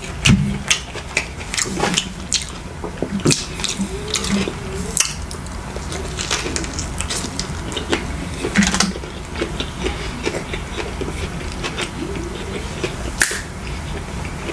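Close-miked eating: wet chewing and slurping mouth sounds, with many short, sharp clicks.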